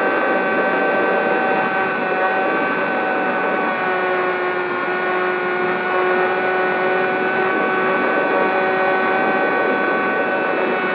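Electric brushless motor and propeller of a Zohd Talon GT Rebel RC plane in flight, a steady whine that sags slightly in pitch over the first few seconds, then holds.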